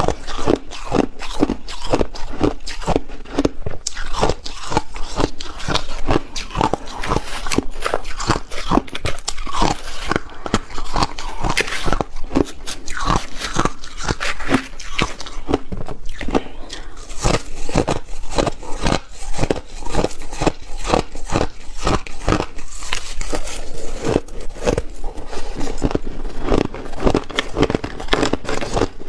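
Close-miked biting and crunching of ice: rapid crisp crunches, several a second, as the ice is chewed.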